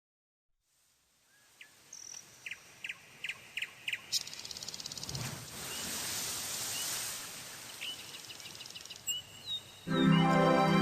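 Natural ambience fading in: songbirds calling, with a run of short chirps about three a second, then a fast pulsing buzz of insects or birds under scattered calls. Music comes in loudly near the end.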